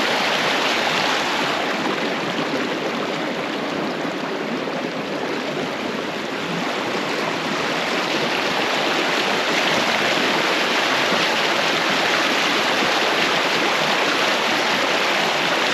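Fast-flowing river water rushing steadily with a strong current.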